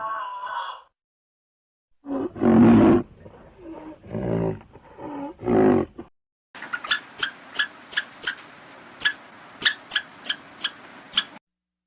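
A large animal roaring about four times in deep, rough calls, the first the loudest. Then a steady hiss with about a dozen sharp, short clicks or chirps.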